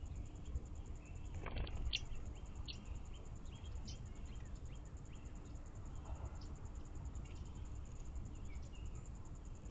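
Outdoor backyard ambience: a steady, high-pitched, evenly pulsing insect trill, with short high bird chirps scattered through it. There is a brief louder sound about a second and a half in, all over a steady low rumble.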